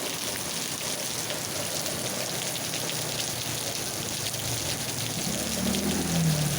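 Steady rain falling, a dense patter of drops on hard surfaces. Near the end a low wavering hum comes in under it.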